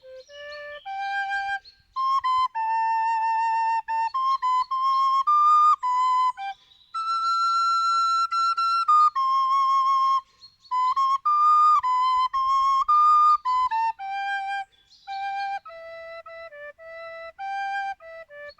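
Solo flute playing an unaccompanied melody, moving in short notes with a long held note about halfway through.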